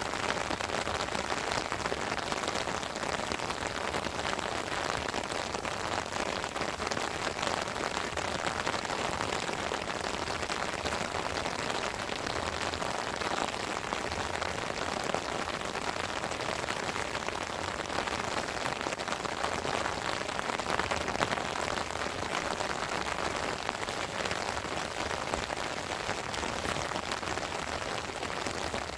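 Heavy rain falling steadily, a dense patter of drops hitting a surface with no break.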